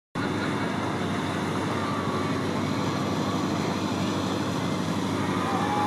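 Steady engine rumble with a dense noisy wash, from a boat engine running. It begins abruptly out of silence, and a faint high tone sounds near the end.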